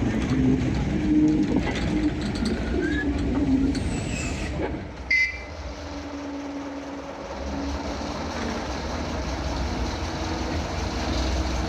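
Ruston 48 diesel shunting locomotive running as it shunts, a steady low engine hum with its gearbox near silent. A short, sharp, high sound stands out about five seconds in.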